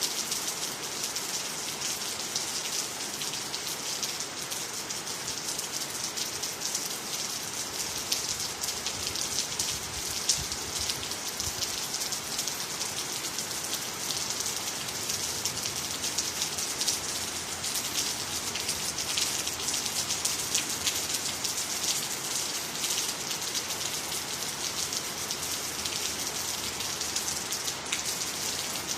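Steady rainfall, with many fine drops pattering on water, ground and nearby trees in a constant hiss.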